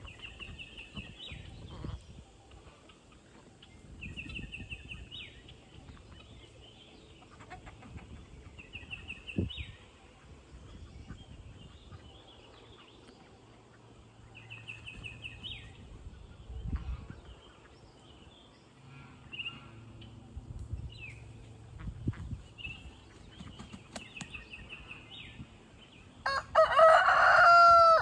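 A rooster crows once near the end, the loudest sound. Before that, a short high trilled bird call repeats about every four seconds, with scattered low knocks.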